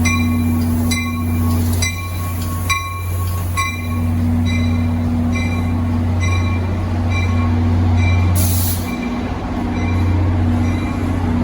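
NJ Transit locomotive standing with its engine running in a steady low hum while its bell rings about twice a second. The bell fades toward the end, and a short hiss of air sounds about eight seconds in.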